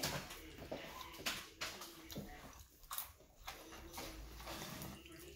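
A man chewing food with his mouth close to the microphone, with many short wet mouth clicks.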